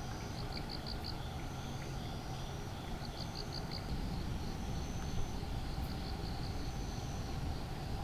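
Insects chirping: short bursts of about five high, quick pulses every two to three seconds, with longer high trills between, over a steady low rumble.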